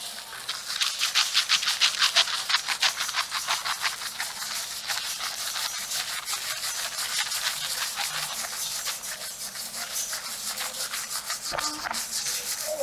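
Fingertips scrubbing shampoo lather into hair and scalp: a fast, steady run of scratchy rubbing strokes, loudest in the first few seconds.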